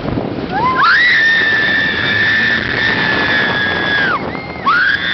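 A roller coaster rider screaming: one long high scream that rises, holds for about three seconds and falls away, with a second scream starting near the end, over a steady rushing noise from the ride.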